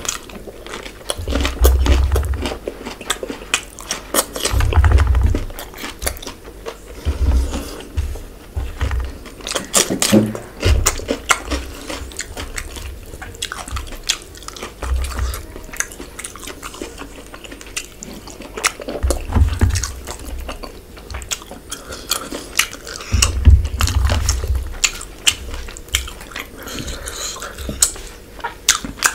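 Close-miked eating sounds: wet chewing and lip-smacking as fish curry and green chili are eaten by hand, with many small mouth clicks and a few dull low thuds.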